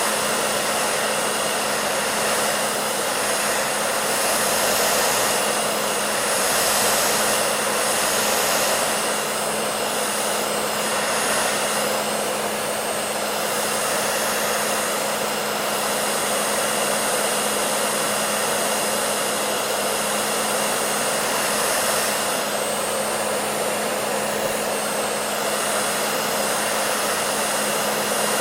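Hair dryer running steadily: a continuous whooshing airflow with a steady motor hum beneath it, swelling slightly in level now and then.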